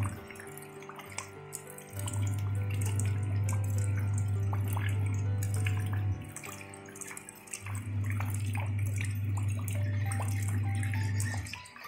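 Rain falling into shallow water over gravel, many small drop splashes. Soft music plays alongside with a deep held bass note that drops out twice.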